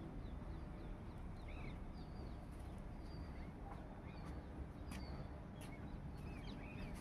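Outdoor ambience: small birds chirping in short, repeated calls over a steady low rumble, with a few faint clicks.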